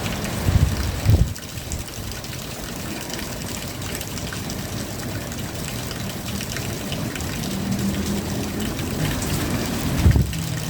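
Steady rain falling, with a few low thumps in the first second and again near the end.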